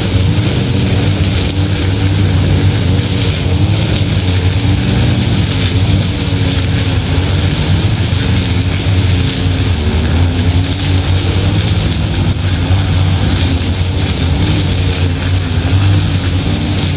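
A vehicle's engine running steadily with a constant low rumble; its pitch wavers slightly up and down without a clear rev.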